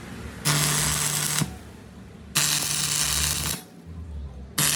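A workshop machine or tool running in three short bursts of about a second each: a loud hiss over a steady low hum that starts and stops sharply.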